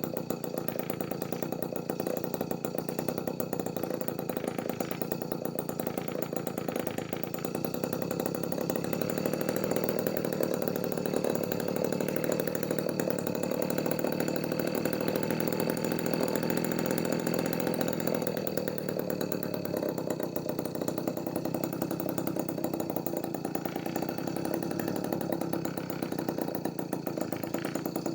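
Homemade mini two-stroke engine, built from a refrigerator compressor, running steadily at idle on test; it gets a little louder partway through, then settles back.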